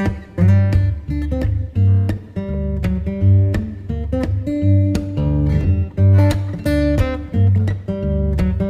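Background music: strummed acoustic guitar with a steady bass line.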